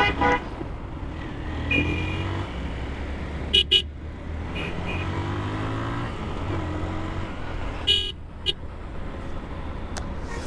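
Busy road traffic heard from a moving motorcycle: engines running steadily underneath, with short vehicle horn beeps cutting through, a quick double beep about three and a half seconds in and two more around eight seconds.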